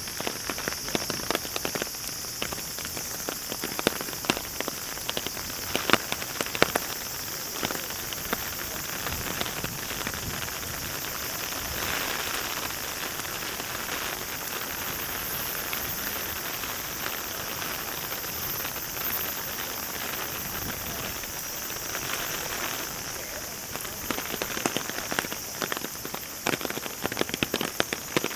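Steady heavy rain hiss, with close raindrops landing in irregular sharp ticks that come thickest in the first several seconds and again near the end.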